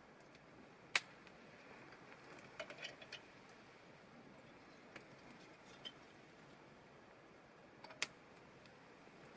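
Wood campfire crackling: a few sparse, sharp pops, loudest about a second in and again near the end, with a small cluster of lighter crackles around three seconds, over a faint steady hiss.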